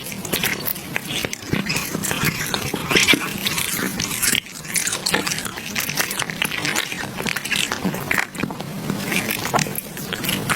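A cat chewing food close to the microphone: a rapid, irregular run of crunching clicks.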